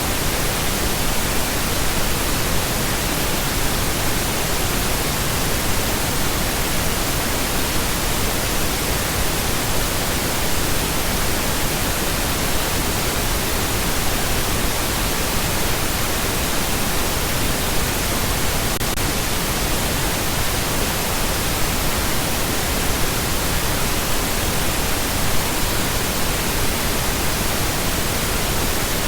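Steady, unbroken pink noise: an even hiss spread across the whole range of pitch.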